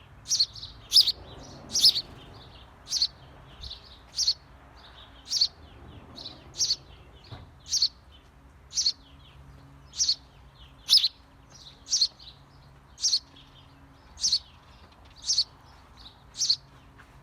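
Small bird chirping at a birdhouse, a short sharp chirp about once a second, sometimes two close together.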